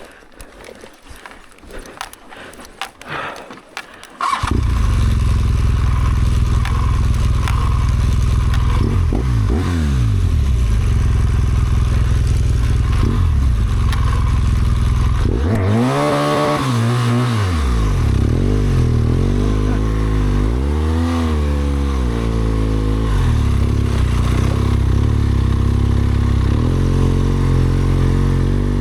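BMW R1200GS Adventure's boxer-twin engine starting up suddenly about four seconds in, after some light clicking, then running with the revs rising and falling several times.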